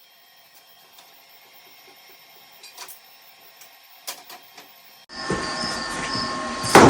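Faint scattered clicks. Then, from about five seconds in, crickets chirping in a steady pulsing rhythm over a low background hum, with one brief loud knock near the end.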